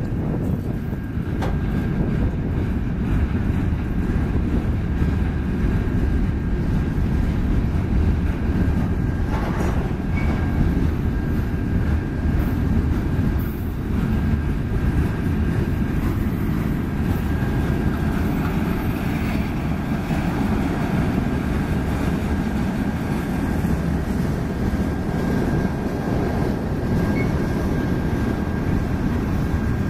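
Freight cars rolling past: steel wheels on rail making a steady, even rumble with occasional faint clicks.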